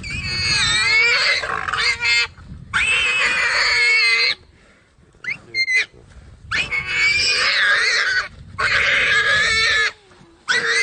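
A warthog squealing in distress while a leopard attacks it: five or six long, high-pitched, wavering screams, each a second or two long with short breaks between.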